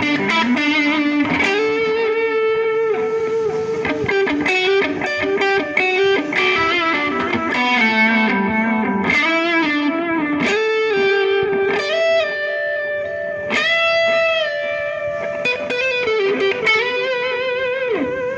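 Electric guitar played through a Mosky DTC multi-effect pedal: a lead line of held notes with bends and vibrato, the notes sustaining long and rich in overtones.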